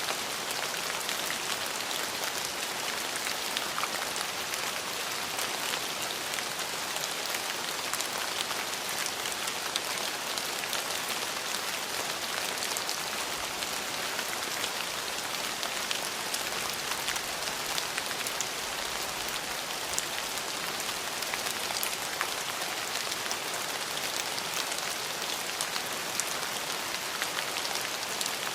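Steady rain falling on hard surfaces, an even hiss dotted with the ticks of single drops.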